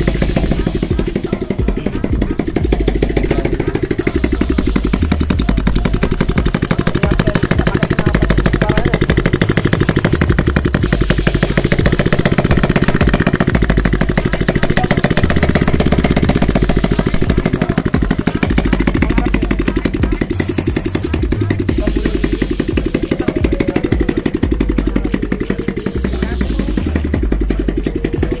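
Motorcycle engine idling with no exhaust or muffler fitted, running loud and steady, each firing pulse sounding straight from the open exhaust port.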